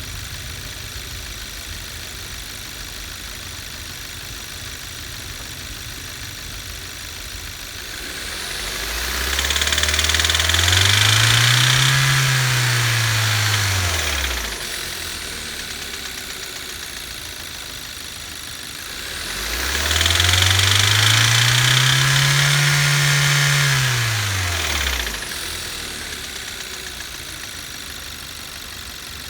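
A 2015 Kia Rio's 1.6 GDI four-cylinder engine idling and revved up twice, each rev climbing and falling back over about five seconds. A high-pitched noise rises with the engine during each rev: the noise issue the owner is showing.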